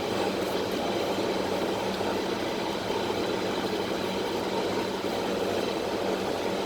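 Steady interior noise of a London Underground Central line train (1992 Tube Stock), a continuous rumble with a steady low hum underneath, heard from inside the carriage.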